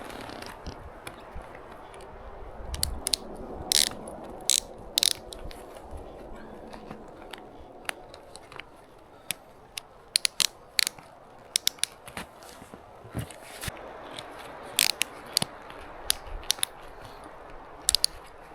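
Snowshoe binding ratchets clicking in short, irregular runs as the bindings are tightened, over a faint steady hiss.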